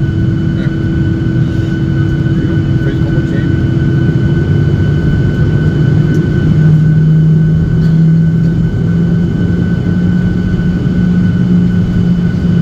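Steady machinery hum inside a Boeing 737-800 cabin with the aircraft stopped after landing, likely the aircraft's systems and air conditioning still running. A low hum grows louder about six seconds in while a higher steady whine carries on throughout.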